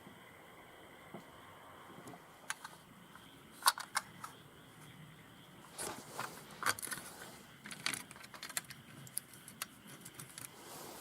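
Hand tools and small metal carburetor parts being handled, giving sharp clicks and clinks, the loudest two a little under four seconds in, then a busier run of clinks and brief scrapes from about six seconds on.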